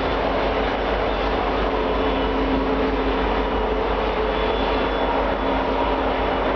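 Union Pacific autorack freight cars rolling past on a downgrade: a steady, loud noise of steel wheels on rail, with a few faint steady squealing tones above it.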